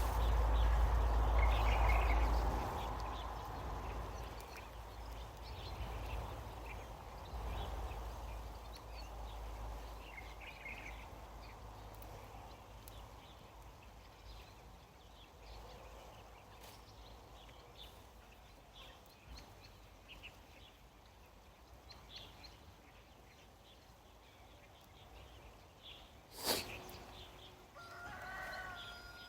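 Quiet outdoor farm ambience with scattered faint bird calls. A low rumble in the first few seconds fades away, there is a single sharp click late on, and a short pitched call near the end.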